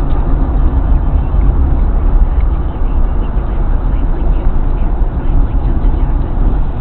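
1996 Ford Thunderbird slowing down on the road: steady road and engine noise with a strong low rumble.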